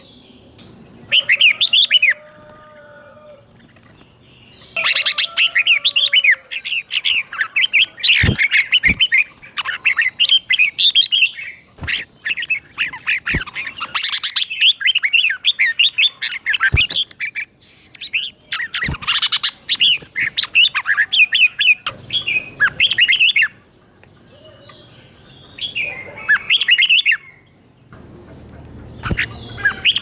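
Red-whiskered bulbuls singing: bursts of quick, bright warbling phrases with short pauses between them, with several sharp clicks through the middle.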